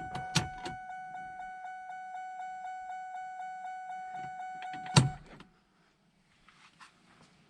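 Car's electronic lights-on warning chime, set off by pulling the headlight switch: a steady high tone pulsing about four or five times a second. A loud thump about five seconds in, and the chime stops right after it.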